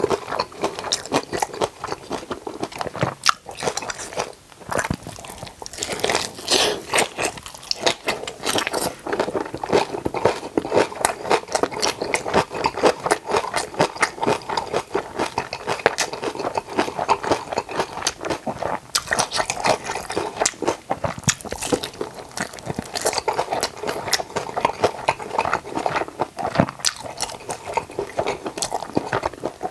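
Close-miked eating: a continuous run of crunchy bites and chewing of kimjang kimchi and boiled pork (bossam), with a short lull about four seconds in.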